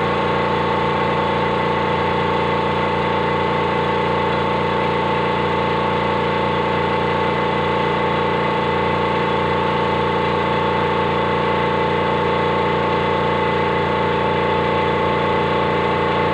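A machine running steadily at constant speed: a loud, unchanging engine-like drone made of several fixed tones, with no rise or fall in pitch.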